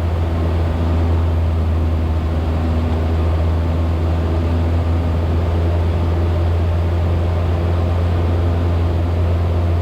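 Cessna 172's piston engine and propeller droning steadily in cruise, heard inside the cockpit, with an even low hum and no change in pitch.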